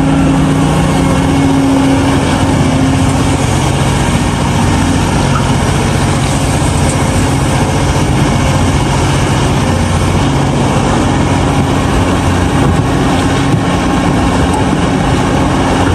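Large Caterpillar excavator working through a loading cycle: its diesel engine and hydraulics run loud and steady under load. A low engine tone eases off about three seconds in.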